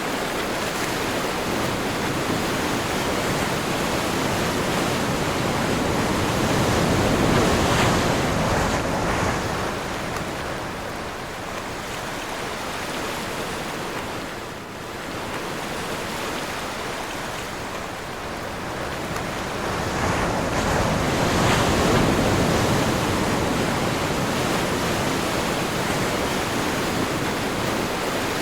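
Ocean surf with wind: a continuous rush of waves that swells twice, once about a quarter of the way in and again about three-quarters through, easing between.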